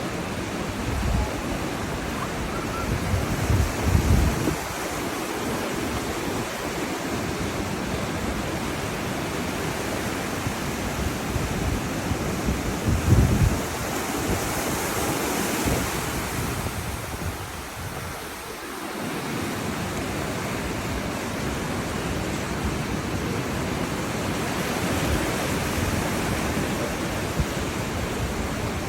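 Ocean surf washing and splashing over lava rocks along the shore: a steady rushing of water with a few louder low surges, around four and thirteen seconds in.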